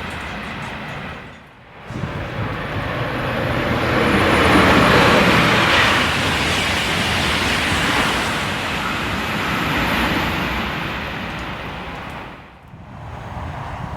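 High-speed TGV train passing through a station at speed: a loud, even rushing that swells to a peak about five seconds in and slowly fades. The sound dips sharply twice, near the start and near the end.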